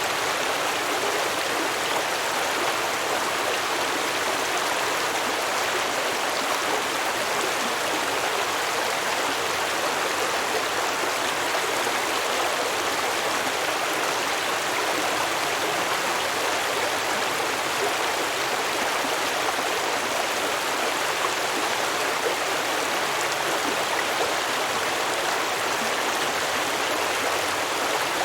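Small stream running over rocks: a steady, even rush and babble of water.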